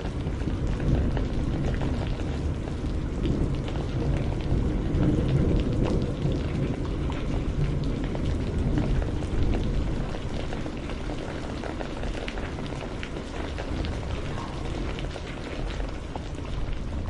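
Steady rain falling, a dense wash of many small drop ticks with a deep low rumble beneath it.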